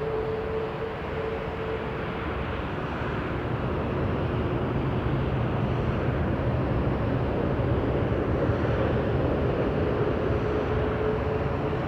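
Jet airliner engines on approach to land: a steady rumble with a faint whine, growing a little louder from about four seconds in.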